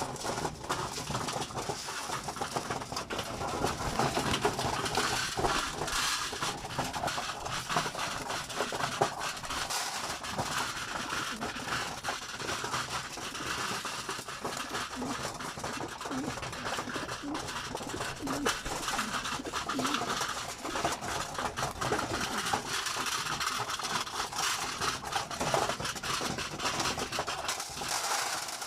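Racing pigeons cooing, with short low coos scattered through a steady background of bird noise.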